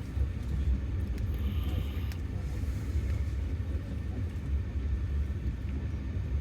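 Steady low rumble of a moving passenger train, heard from inside the sleeper carriage.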